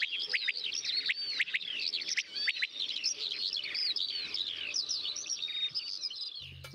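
Birds chirping and twittering in a dense run of quick, sweeping calls. Low music notes come in near the end.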